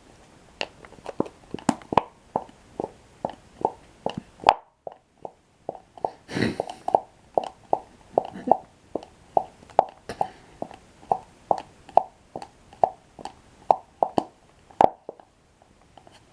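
Close-miked chewing of toasted bread sticks with cocoa cream: a steady run of short, wet mouth smacks and clicks, two or three a second, with one longer rustling burst about six and a half seconds in.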